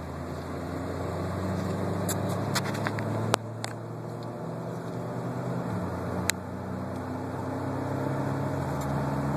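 Cabin sound of a 2003 Mitsubishi Lancer driving at around 40 mph and up: a steady low roaring drone, slowly getting louder, which the owner believes is a bad front left wheel bearing. A couple of brief sharp clicks come through, a few seconds apart.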